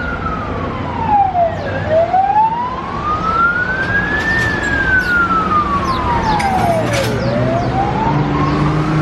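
Emergency-vehicle siren in a slow wail: one tone falls to a low point about two seconds in, climbs back over about two and a half seconds, then falls again about seven seconds in before rising once more. Short high chirps of small birds come over it.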